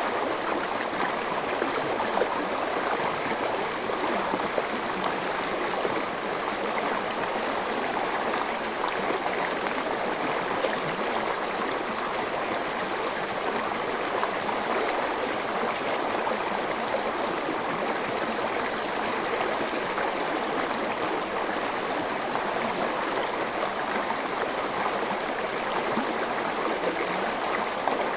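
Forest stream flowing and gurgling over rocks, a steady rush of water.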